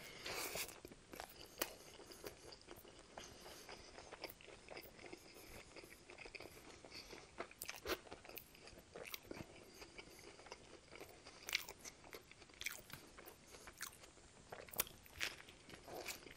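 Close-miked biting and chewing of an A&W Teen Burger with lettuce: a bite right at the start, then steady chewing with faint, irregular crunches and wet mouth clicks, a few louder crunches now and then.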